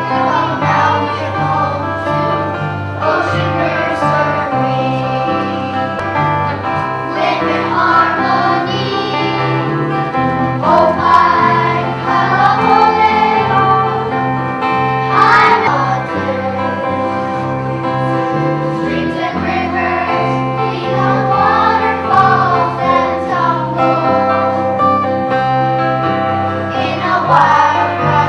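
A group of young children singing a song together over an instrumental accompaniment with a steady, stepping bass line.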